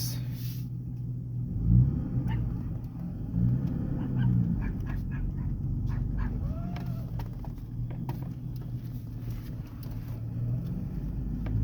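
2003 Ford Ranger's 4.0L V6 running through an exhaust with the muffler deleted and the catalytic converters still on, giving a deep, rumbly drone at low revs. The truck backs up and pulls away with a few brief swells of throttle.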